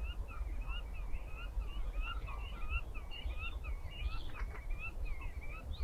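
Black-tailed godwit calling: a rapid, continuous run of short rising-and-falling call notes, about three or four a second, over a low steady rumble.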